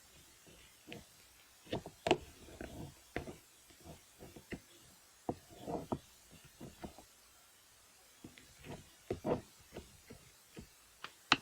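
Hands squeezing and pressing a clay slime. It makes irregular soft squishes and sticky popping clicks, with short pauses between them and one sharp click near the end.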